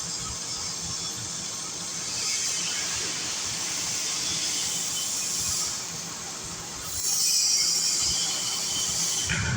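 Metal lathe turning a shaft: a steady hissing cutting noise over a faint low hum, growing louder about two seconds in and again about seven seconds in.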